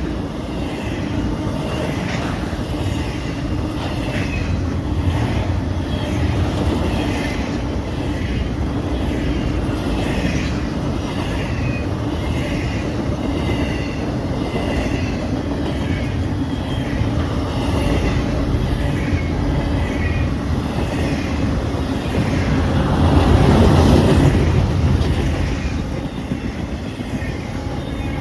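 Fast intermodal freight train rolling past: a steady rumble of cars on the rails with a faint rhythmic clicking of wheels, swelling louder for a couple of seconds about three-quarters of the way through.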